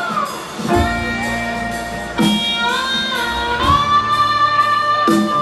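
Rock band playing live, heard loud through a phone's microphone: electric guitar holding bent notes over bass and drum hits.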